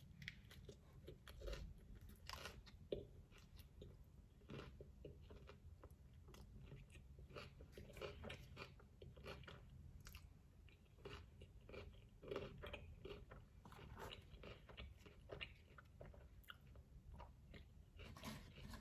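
Faint chewing and biting of a taco, with small irregular crunches every second or so.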